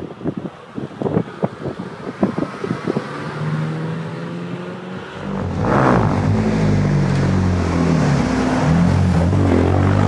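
A run of sharp cracks in quick succession, then a steady engine note. From about six seconds a Ferrari 458 Spider's V8 comes in much louder, revved repeatedly, its pitch climbing and falling.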